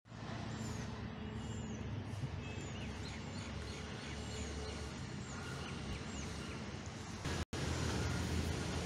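Outdoor ambience: a bird repeats a short, high, down-curving call about once a second over a steady low rumble, like distant traffic. The sound cuts out for an instant about three quarters of the way through, then the rumble carries on.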